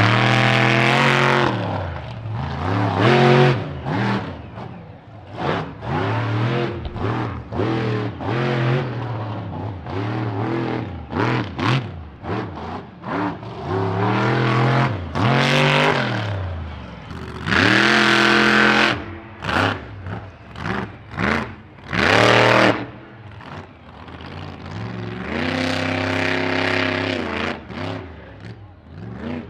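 Monster truck engines revving hard, the pitch rising and falling again and again in loud bursts as the trucks accelerate and back off.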